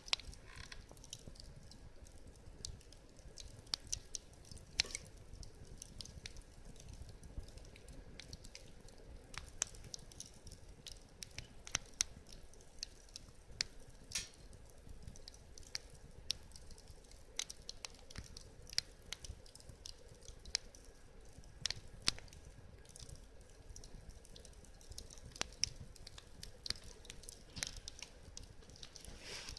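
Wood fire crackling: irregular sharp pops and snaps over a faint steady hiss of burning.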